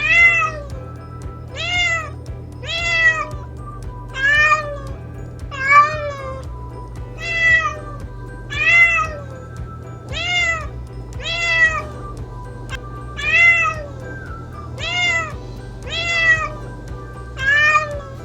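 A domestic cat meowing again and again, about thirteen short meows, each rising then falling in pitch, over steady background music.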